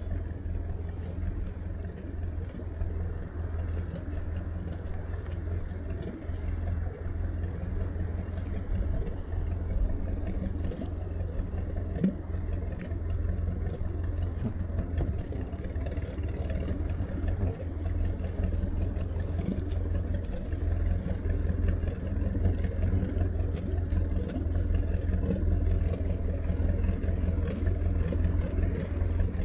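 An engine running steadily with a low, even hum, getting slightly louder in the second half, with faint scattered clicks over it.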